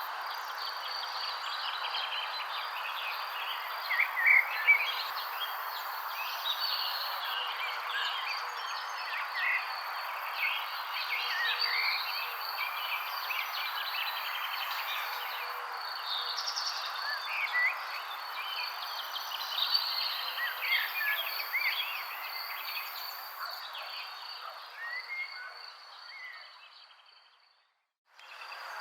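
Many small birds chirping and calling over a steady, evenly pulsing insect trill and a continuous background hiss. Everything fades out to silence near the end.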